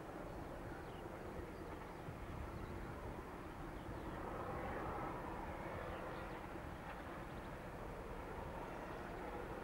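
Distant train approaching, hauled by a steam locomotive with diesel assistance: a faint, steady rumble that swells a little about halfway through.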